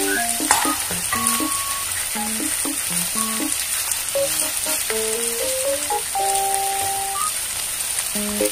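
Chicken drumsticks with sliced onion and garlic sizzling in oil in a nonstick frying pan as a metal spatula stirs them, with a sharp tap about half a second in. A simple melody of background music plays over the sizzle.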